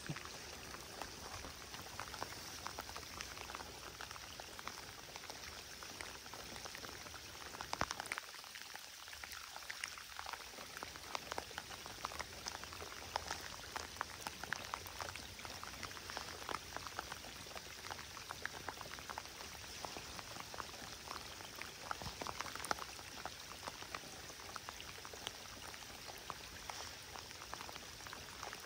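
Steady rain falling on open water: a dense, even patter of small drops.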